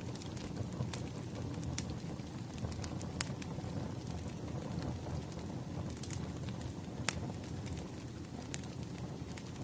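Crackling wood fire: a steady low rumble of burning logs with irregular sharp pops and snaps about once a second.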